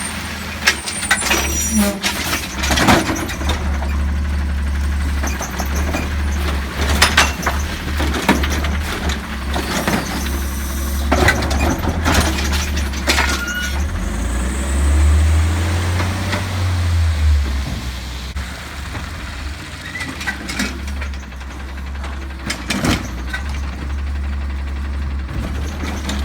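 Garbage truck's diesel engine running, with repeated loud clanks and bangs while it collects recycling carts. Its engine revs up for a few seconds about halfway through.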